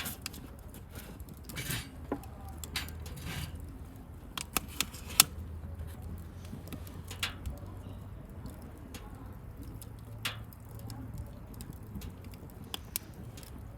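Wood bonfire crackling: irregular sharp pops and snaps, a few louder than the rest, over a low steady rumble.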